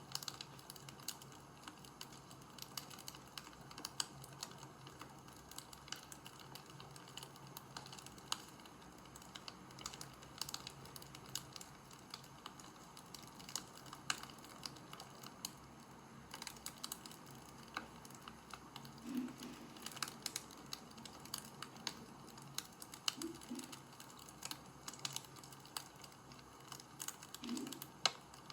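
Light, irregular clicking and crackling, several clicks a second over a faint steady hum, with a few soft low thumps in the second half.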